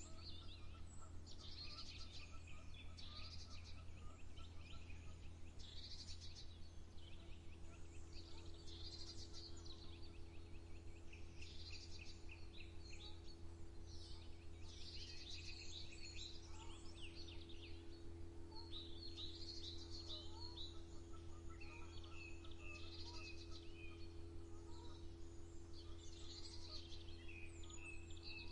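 Birds singing in the open, a run of short, repeated song phrases every couple of seconds, over a steady low hum.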